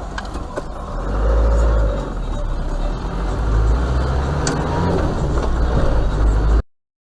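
A car driving, with steady engine and road rumble picked up by a dashcam microphone, cutting off suddenly near the end.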